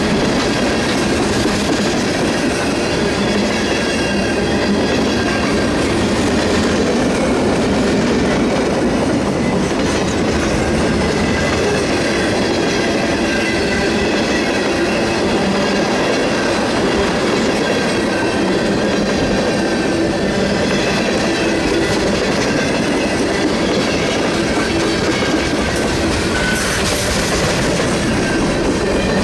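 Freight train's covered hoppers and tank cars rolling past close by: a steady rumble and clatter of steel wheels on the rails that holds the same level throughout.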